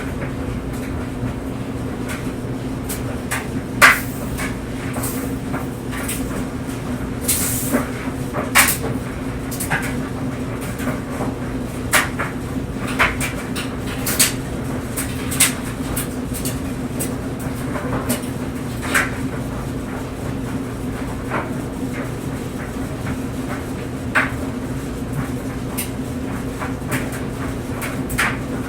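Clothes dryer running with laundry tumbling in the drum: a steady motor hum under irregular light knocks and clicks as the load falls, the sharpest knock about four seconds in.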